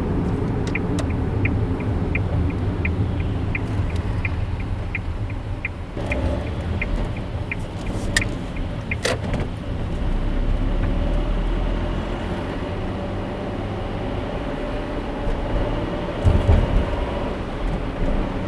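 Car driving with a steady low engine and road noise heard from inside the cabin. A turn-signal indicator ticks about three times a second for the first eight seconds or so, then two sharp clicks come about eight and nine seconds in, and a short low thump near the end.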